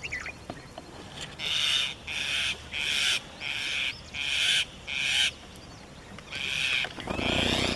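Birds giving a series of short, harsh alarm calls, about one and a half a second, with a brief break partway through before they resume: the birds are mobbing a monitor lizard near their eggs.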